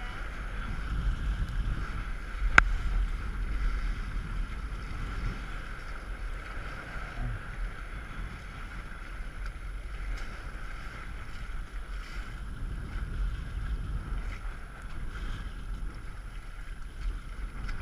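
Wind buffeting the microphone and water washing past the hull of a small sailboat under way, with one sharp knock about two and a half seconds in.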